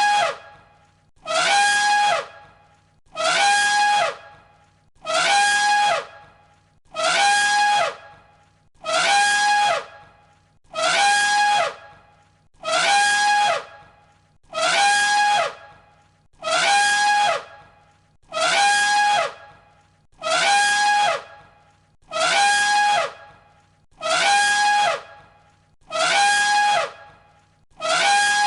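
Elephant trumpet call, the same recording repeated on a loop about every two seconds. Each call is a loud, brassy, roughly one-second blast with a steady high pitch and a falling sweep.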